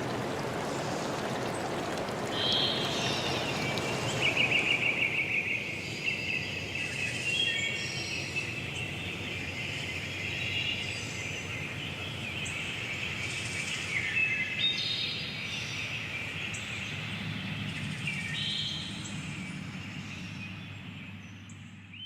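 Several birds singing, a busy mix of quick chirps, trills and whistles. Under them a stream's rush fades away over the first few seconds.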